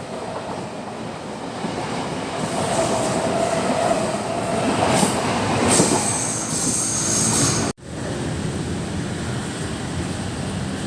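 A train running past, its wheels squealing on the rails: a held squeal, then a higher, thinner squeal. About two-thirds through, the sound cuts out for an instant, and a steady rumble follows.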